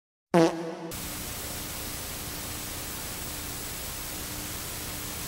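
A short, loud pitched blip about a third of a second in, then a steady hiss of static with a faint hum underneath, like an edited-in TV-static sound effect.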